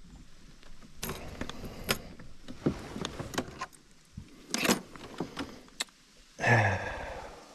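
Clicks, knocks and rattles of fishing gear being handled in a kayak, with a louder rattle about halfway through. A short wordless vocal sound follows near the end.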